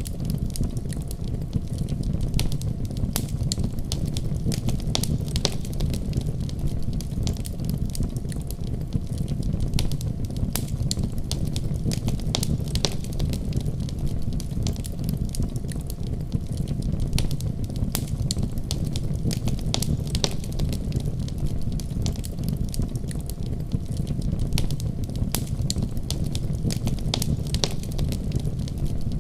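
Wood fire crackling in a fireplace: many small sharp pops and snaps at irregular intervals over a steady low rumble.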